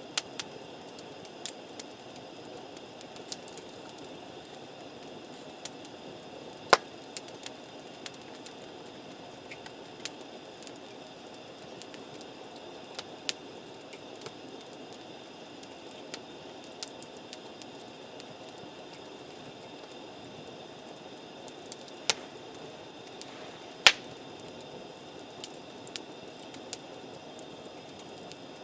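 Wood campfire crackling: irregular sharp pops over a steady low hiss, with two louder snaps, one about a quarter of the way in and one near the end.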